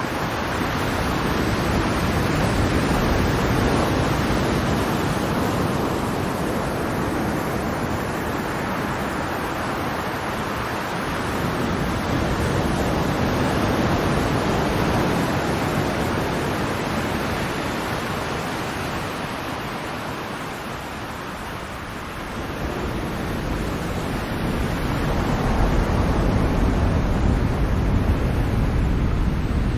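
Ocean surf: a continuous wash of breaking waves that swells and eases in slow surges, with a deeper rumble in the last few seconds.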